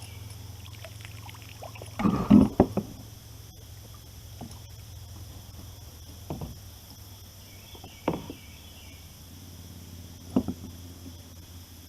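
Knocks and bumps on a plastic sit-in kayak as a caught bass is handled in a landing net and unhooked. The loudest cluster of knocks comes about two seconds in, followed by single knocks roughly every two seconds.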